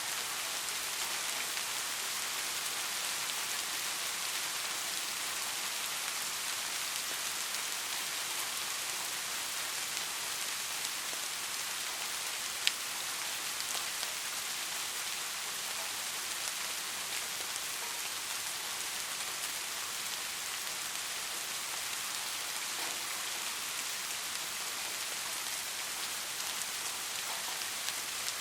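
Steady rain falling, drops pattering on hard surfaces with an even hiss. A single sharp tap sounds about halfway through.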